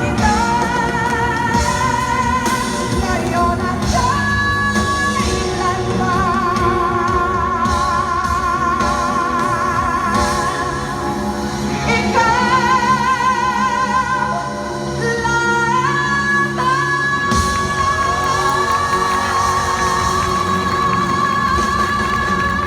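A ballad sung live over band accompaniment, in long held notes with wide vibrato, climbing to a final high note held steadily from about two-thirds of the way through to the end.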